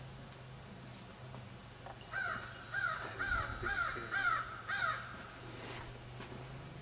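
A bird calling: a run of about six loud calls, roughly two a second, starting about two seconds in and stopping near the five-second mark.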